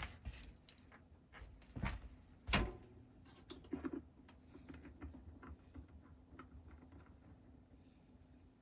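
Scattered light clicks and a couple of louder taps from hands working with electrical tape and wire, over a faint steady hum.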